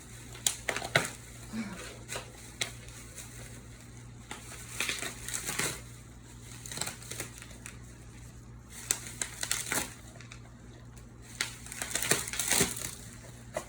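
Irregular crinkling and crunching, with scattered sharp clicks and short rustling bursts.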